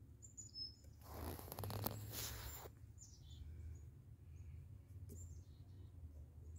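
Faint bird chirps, short and high, several times. About a second in there is a brief rustling noise, the loudest sound here.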